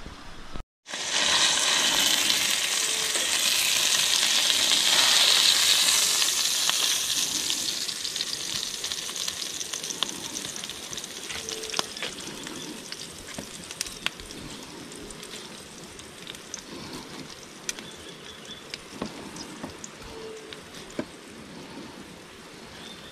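Food frying in hot oil. A loud sizzle starts about a second in and slowly settles into a quieter crackle with scattered pops.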